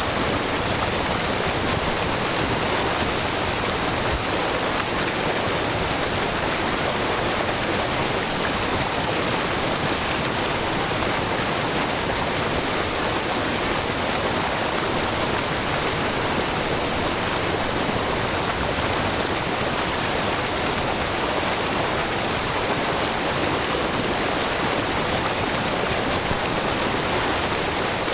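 Wide, low waterfall pouring and splashing in a steady, even rush of white water, with many small streams of groundwater falling from a rock face.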